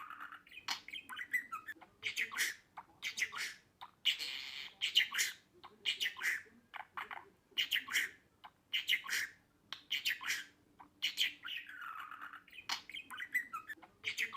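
Budgerigar chattering: a rapid string of short chirps and squawks with a few warbling, wavering calls.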